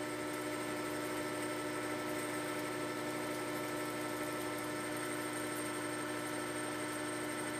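Metal lathe running at fairly high speed while taking a heavy cut of about 50 thousandths on a thin-walled part: a steady hum of several held tones with no chatter or ringing, the part's thin wall damped by vinyl tape wrapped around it.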